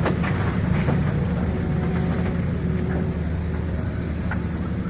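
Heavy diesel engine running steadily under load, a deep, even rumble, with a few short knocks in the first second.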